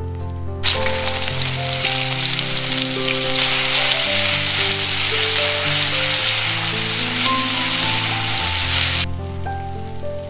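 Food sizzling as it fries in a hot pan, a loud, even hiss that starts abruptly just after the beginning and cuts off near the end. Background music with slow, held notes plays throughout.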